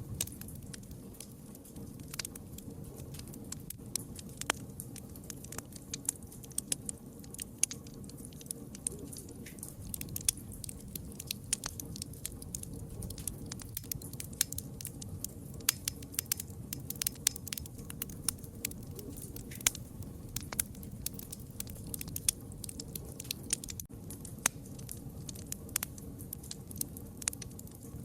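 Wood fire burning, with many irregular sharp crackles and pops over a steady low rush of flame.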